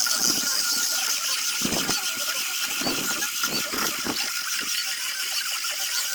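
Electric sanding tool running continuously against zelkova root wood during rough sanding, a steady high hiss with a thin whine, and uneven low rumbles in the middle as it bears on the wood.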